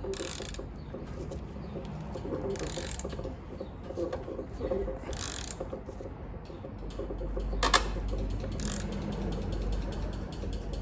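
Ratchet wrench clicking as a 1.6 HDi diesel engine is turned over by hand at the crankshaft to bring it to its timing-lock position, with a few louder short rasps every two or three seconds and faster clicking in the last few seconds.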